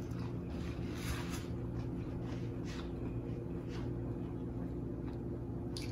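Soft, wet chewing and mouth smacks of someone eating boiled shrimp in sauce, coming several times at irregular intervals over a steady low hum.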